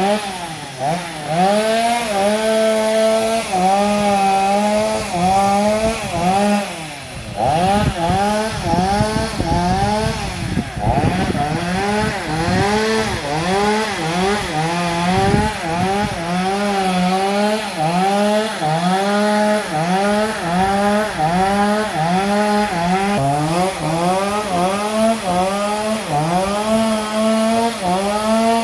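Two-stroke chainsaw cutting a fallen tree. Its engine pitch sags as the chain bites into the wood and recovers, again and again, with a rougher, lower stretch about a third of the way in.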